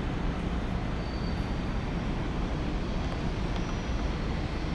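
Shinkansen bullet train rolling slowly into the station to stop, a steady low rumble.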